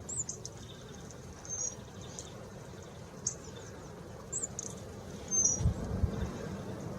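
Hawfinch giving short, sharp, very high call notes, one about every second or so. A low rumble rises briefly near the end.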